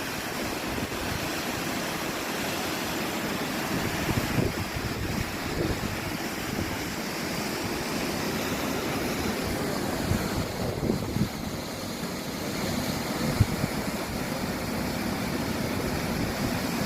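Steady rush of water flowing into a shipyard dry dock as it is flooded, with wind buffeting the microphone now and then.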